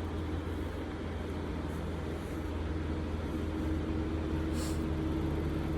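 Steady low background hum, with one brief faint scrape or rustle about four and a half seconds in.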